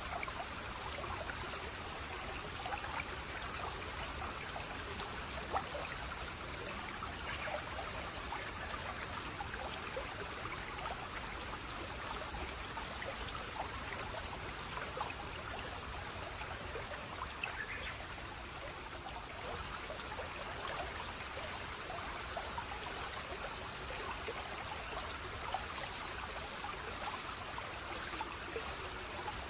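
Stream water flowing steadily, a continuous rush dotted with small splashes and trickles. A faint high trill comes in briefly a few times in the first half.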